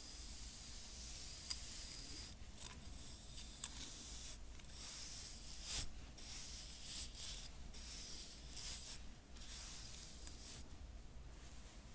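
Hairbrush bristles scratching and rubbing in a run of soft, high-pitched swishes, with a few sharp clicks.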